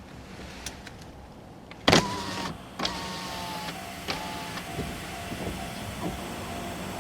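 A 103 series electric train passing over the level crossing. It comes in suddenly and loudly about two seconds in. A steady hum and a series of wheel clacks over the rail joints follow.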